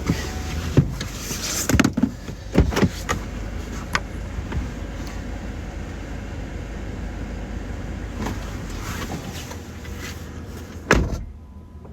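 Car door sounds: a few knocks and thumps over a steady low rumble, then a door shuts with a loud thud about 11 seconds in, after which it is quieter.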